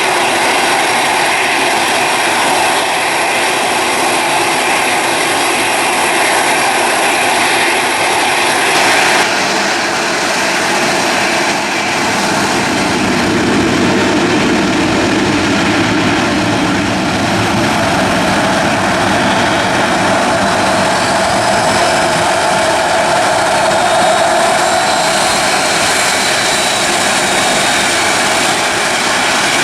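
Airliner engines running loud and steady at close range, with a thin high whine over the noise that cuts off about nine seconds in, after which the sound shifts lower.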